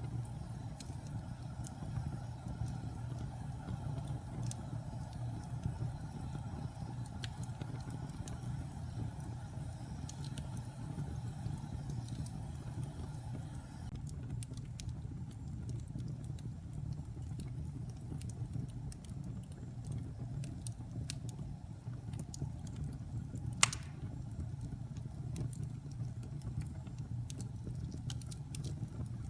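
Wood fire burning in a fireplace: a steady low roar of flames with scattered small crackles and one sharp, loud pop about three quarters of the way through.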